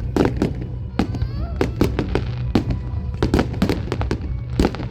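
Fireworks display: a rapid, irregular run of sharp bangs and crackles, several a second.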